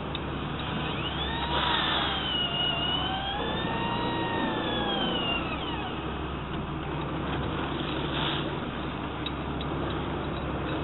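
A boat's engine running steadily with a low hum over wash noise. From about a second in, a whine rises and falls in pitch for several seconds, then fades out.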